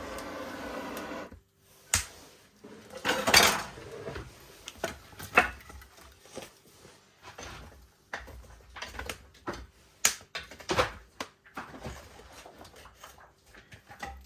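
Wood fire crackling: irregular sharp pops and cracks at uneven intervals, some loud, some faint. A steady hum-like noise cuts off abruptly about a second in.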